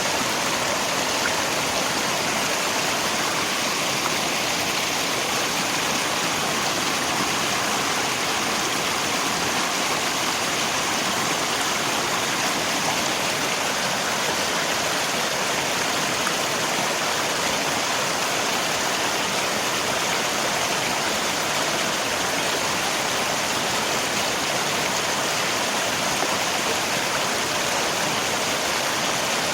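River water rushing steadily with rain falling, a constant even hiss with no breaks or changes.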